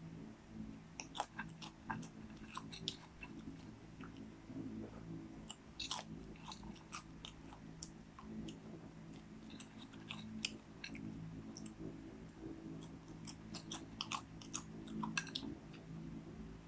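A person chewing and biting popcorn, with many irregular crisp crunches and clicks, over a steady low hum.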